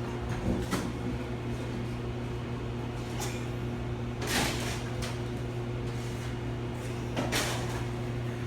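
Steady low electrical hum of running equipment, with four brief swishes or scrapes about one, three, four and a half and seven and a half seconds in.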